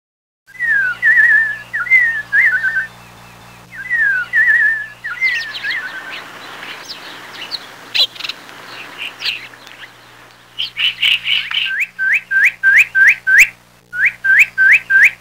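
Birdsong: clear whistled phrases that slide down into a short trill, then scattered chirps, then a quick run of rising whistled notes about three a second near the end.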